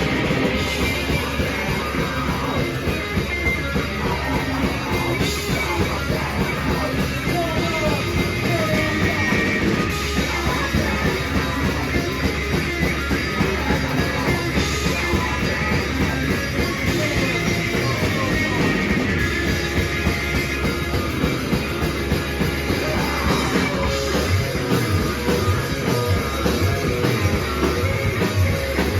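A rock band playing loud and live: dense guitar noise over a drum kit, with the kick drum thumping hard in a steady pulse in the last few seconds.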